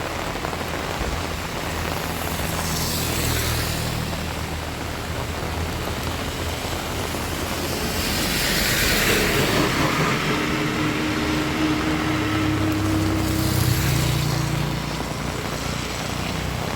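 Steady heavy rain with motor vehicles passing on the wet road, their engines humming low and their tyre hiss swelling three times as they go by.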